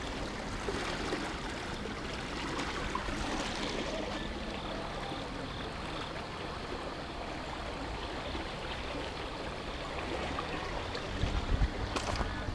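Steady rushing of flowing canal water. Near the end, wind starts buffeting the microphone in low gusts.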